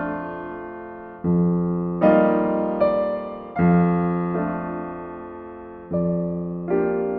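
Slow, gentle solo piano music: chords struck about once every second or two, each left to ring and fade before the next.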